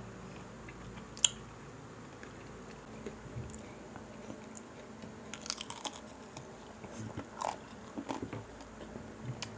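Close-miked chewing and crunching of crispy pata, deep-fried pork knuckle eaten by hand. A single sharp click about a second in, then scattered short crunches in the second half.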